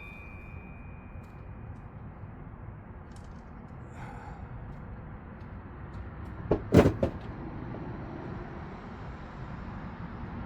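Hand tools being handled during work on the water pump: a faint metallic ring dies away at the start, then a short cluster of three or four sharp metal knocks comes about two-thirds of the way through, over a low steady background.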